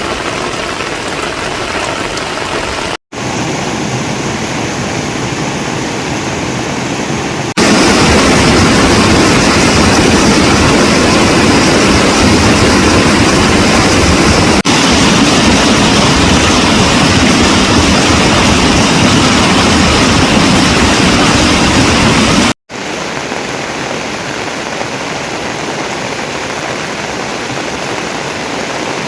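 Steady hiss of water in the rainy season, in several clips joined by cuts: a brief break about three seconds in, a louder, fuller stretch from about seven to twenty-two seconds in, then a brief break before it drops back.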